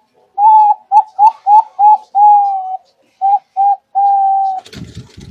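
Zebra dove (perkutut) cooing: a run of about nine coos, mostly short clipped notes with two longer drawn-out ones, all on much the same pitch. Near the end the cooing stops and a low rough rumbling noise takes over.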